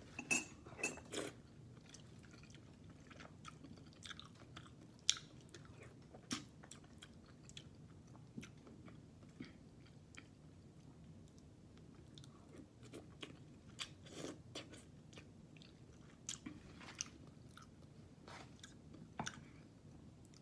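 A person quietly chewing a mouthful of sautéed sardines and sweet potato leaves, with scattered small clicks and taps throughout. A few of the clicks are louder in the first second or so.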